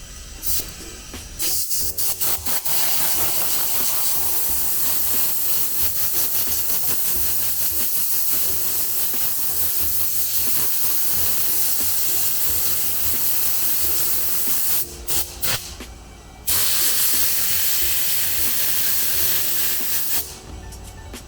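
Compressed air hissing from an air tool in long blasts, broken off briefly about fifteen seconds in by a few short bursts, then running again until near the end.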